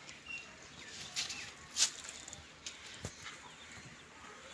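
Farmyard sounds: scattered rustles and knocks with a sharp click about three seconds in, and a few faint short bird chirps.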